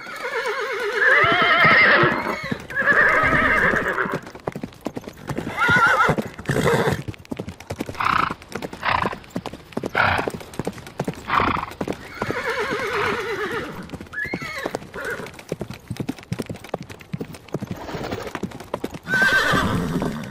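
Horses whinnying, long wavering calls at the start, again about two-thirds of the way in and near the end, with hooves clip-clopping irregularly in between.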